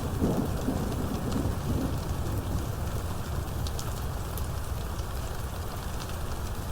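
Steady heavy rain falling, with individual drops ticking, and a low rumble of thunder in the first two seconds that fades away.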